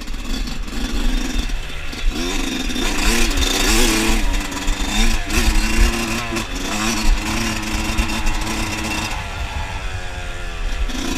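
Dirt bike engine revving and pulling under load. Its pitch rises about two seconds in, holds steady, then drops away near the end as the bike slows.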